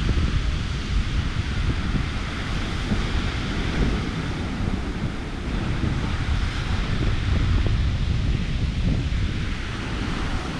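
Wind buffeting the microphone in unsteady gusts, over the steady hiss of ocean surf breaking on the beach.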